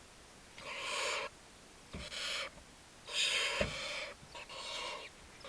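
Baby barn owls giving harsh, rasping begging calls: four or five hissing calls, each half a second to a second long. Two soft knocks come about two and three and a half seconds in.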